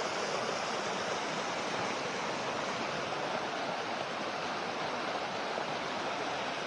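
Mountain river rushing steadily, too deep to wade across.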